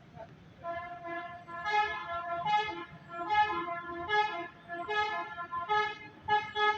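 Truck's basuri musical horn playing a melody: a run of short horn notes at changing pitches, starting about half a second in, over low engine rumble.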